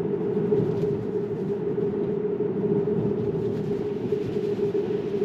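Steady road and tyre noise inside the cabin of a moving Tesla Model 3 Performance, a continuous rumble with a strong low hum.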